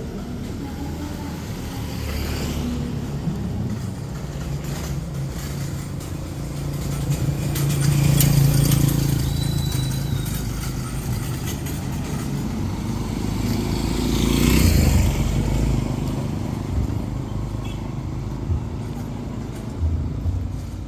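Street traffic: motor vehicles passing close by. One goes by about eight seconds in with a steady low engine note, and another about two-thirds of the way through.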